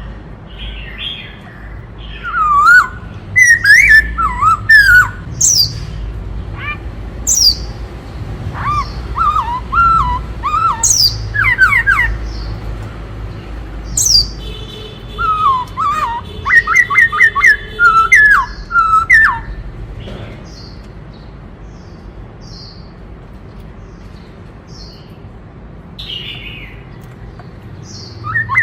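Black-throated laughingthrush singing loud, varied whistled phrases of quick sliding notes mixed with sharp high calls. The song breaks off about two-thirds of the way in, leaving a few faint notes, and starts again near the end.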